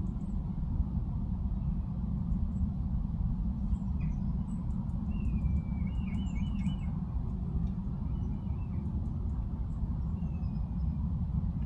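Small garden birds calling in short, wavering phrases, from about four seconds in to about seven, and again briefly near the end, over a steady low rumble.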